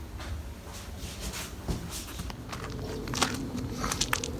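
Footsteps: a run of irregular clicks and scuffs that gets louder toward the end.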